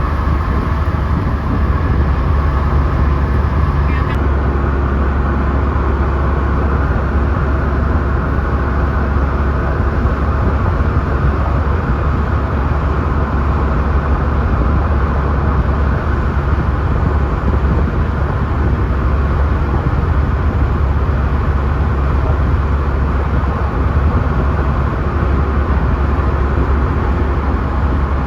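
Steady road and wind noise inside a diesel vehicle driving along the highway, dominated by a heavy low rumble.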